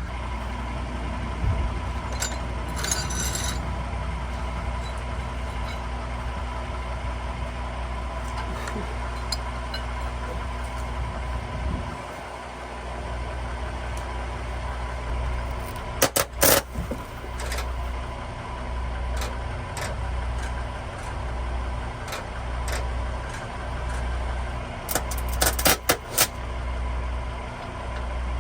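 Truck engine running steadily at idle, with a low pulsing about once a second in the second half and a few sharp metallic clicks.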